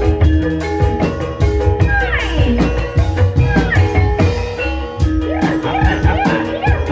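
Gending ebeg, the gamelan music that accompanies ebeg dance: rapid hand-drum strokes over ringing metallophone notes, with a gliding vocal or wind melody over the top.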